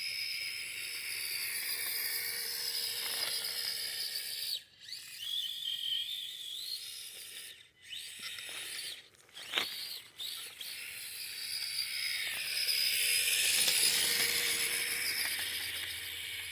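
Micro-scale RC crawler's small electric motor and gearbox whining, the pitch rising and falling with the throttle. It cuts out briefly a few times, about 4.5, 8 and 9 to 10 seconds in.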